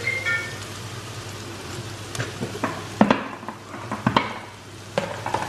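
Onions and ginger-garlic paste sizzling in hot coconut oil in a wok, while a spatula stirs them and knocks against the pan several times; the loudest knocks come about three and four seconds in.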